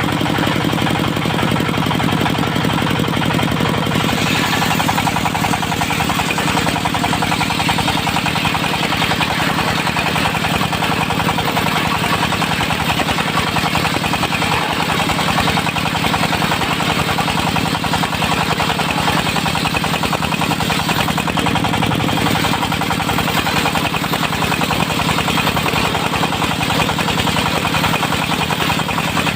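Diesel engine of a portable circular sawmill running steadily. About four seconds in a harsher hiss joins the engine hum, and it eases briefly about two-thirds of the way through.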